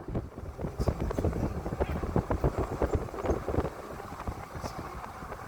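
Road noise inside a moving car: a steady low rumble with many irregular knocks and rattles.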